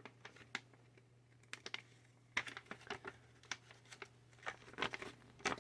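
Irregular light clicks and crinkling as plastic 3D printer parts and their packaging are handled, with a small cluster near the end, over a faint steady low hum.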